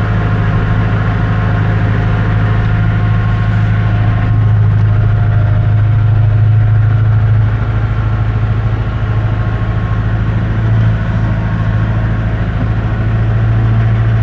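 Farm tractor's diesel engine running steadily, heard from inside the cab: a loud, even low drone with a steady hum.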